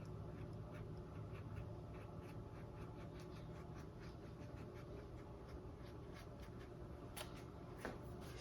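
Paintbrush working acrylic paint onto a stretched canvas: faint short scratchy strokes, about three a second, with one slightly sharper stroke near the end.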